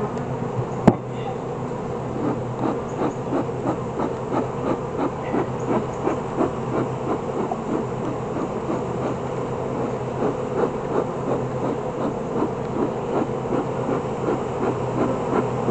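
Honeybees buzzing steadily around an open hive, with a quick rhythmic swishing about three times a second and one sharp click about a second in.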